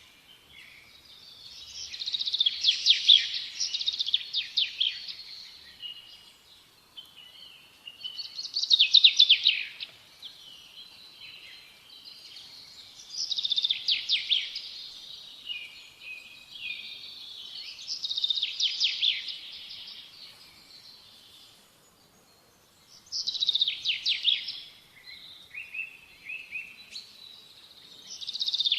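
A songbird singing: six phrases of quick trilled notes, each a couple of seconds long and coming about every five seconds, with softer twittering between them.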